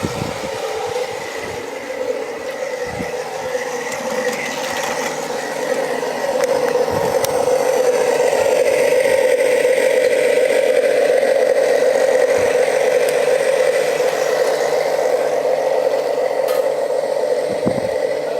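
16mm-scale narrow-gauge model train running on garden railway track with a steady rattling hum. It grows louder about six seconds in and stays so, with occasional clicks.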